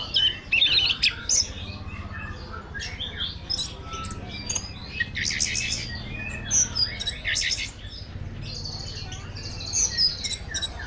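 Orange-headed thrush (anis merah) singing a rapid, varied song of high whistled notes, quick chirps and short buzzy trills, over a faint low hum.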